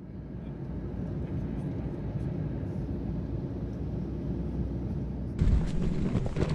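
Steady low engine drone of a vehicle, fading in at the start. About five seconds in it cuts abruptly to a louder, noisier sound.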